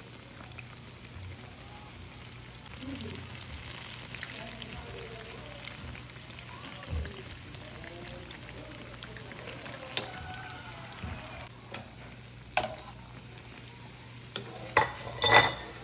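Ripe plantain pieces deep-frying in hot oil in a pan, a steady sizzle. Near the end come a few sharp metal clinks as a wire spider strainer touches the pan.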